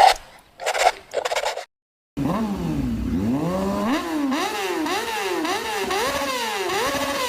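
Motorcycle engine being revved over and over, its pitch climbing and falling about every 0.6 s. A few loud short bursts come first, then a brief cut to silence before the revving starts about two seconds in.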